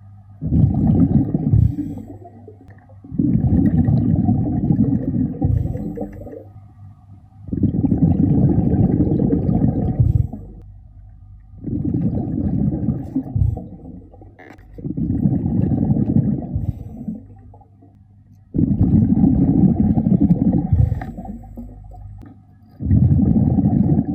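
Scuba diver's breathing heard underwater: exhaled bubbles rushing out of the regulator in bursts of two to three seconds, about every four seconds, with quieter gaps between.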